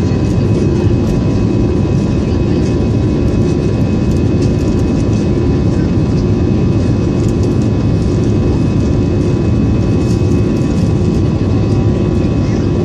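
Jet engines of an Airbus airliner heard from inside the passenger cabin: a loud, steady rumble with faint steady whines above it, unchanging throughout.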